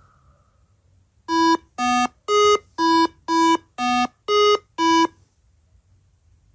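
A short electronic tune of eight beeping notes, about two a second, made of two matching four-note phrases.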